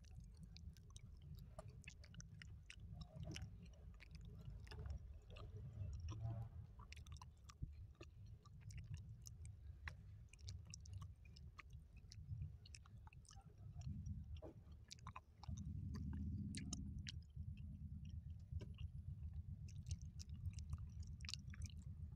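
Close-miked chewing of food, quiet, with many small wet mouth clicks over a steady low hum. A louder low rumble lasts about two seconds past the middle.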